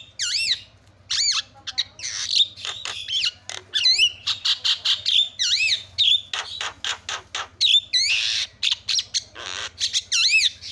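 Javan myna calling: a rapid, noisy run of harsh squawks and rasping notes mixed with arching whistled notes, with a longer harsh screech a little after eight seconds in.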